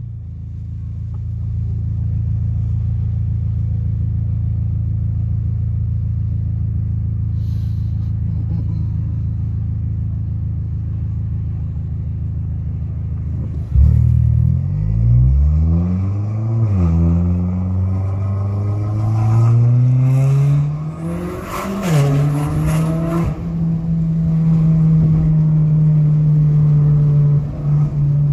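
Renault Mégane GT 205's engine and exhaust with a silencer fitted, heard from inside the cabin: idling steadily, then about 14 seconds in it pulls away, the revs rising through two upshifts before settling into a steady cruise.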